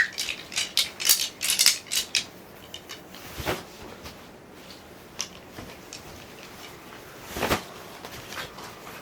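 A quick run of sharp clicks and clinks from small hard objects for about two seconds, then only a few scattered clicks, two of them louder, about three and a half and seven and a half seconds in.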